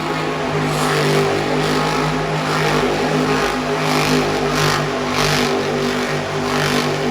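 Monster truck engine running steadily at high revs, a loud, even drone that holds one pitch throughout.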